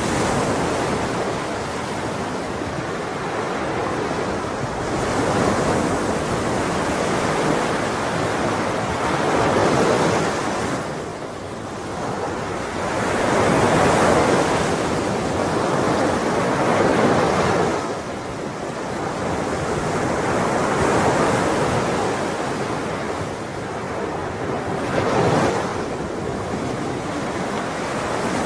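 Sea waves breaking and washing on a shore, a steady rush of surf that swells and eases every few seconds.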